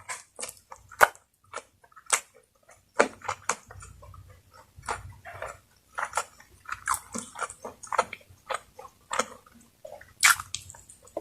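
Close-up eating sounds: a person chewing and smacking food with the mouth, a run of irregular wet clicks and crunches with short pauses between.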